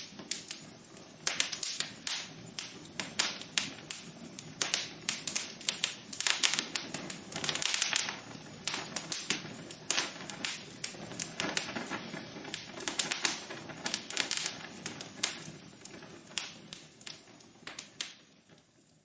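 Wood fire burning in a fireplace, crackling: irregular sharp pops and snaps over a soft steady rush of the flames. The crackles thin out and grow quieter near the end.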